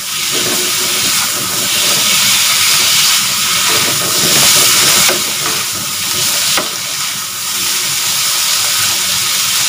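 Tomato wedges and garlic sizzling in hot oil in a wok over high heat, stirred and turned with a spatula. The hiss swells and eases as the pieces are tossed, loudest about halfway through.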